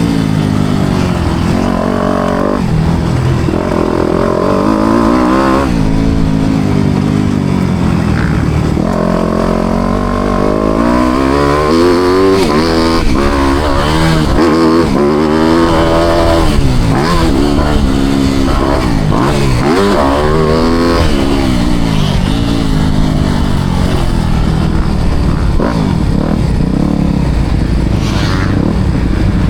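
Four-stroke motocross bike engine on track, revving hard and dropping back over and over as the throttle is opened and shut through the corners and jumps, with a rush of wind and noise underneath.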